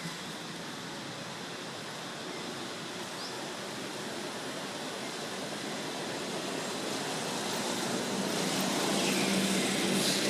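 Steady outdoor background noise, with a road vehicle passing that grows louder in the second half and is loudest near the end.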